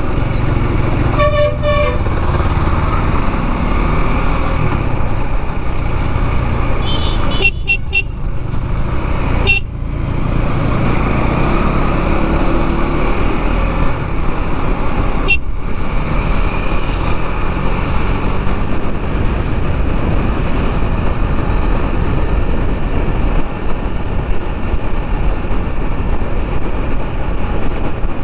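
KTM Duke 390's single-cylinder engine running under way in traffic with a steady low rumble. A vehicle horn honks briefly about a second in, and a shorter, higher toot sounds around eight seconds in.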